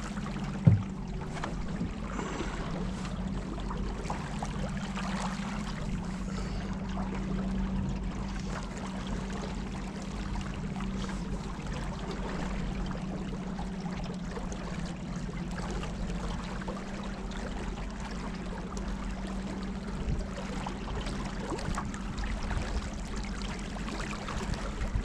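Motorboat engine running steadily while the boat moves, with water rushing past the hull. There is a single sharp knock near the start.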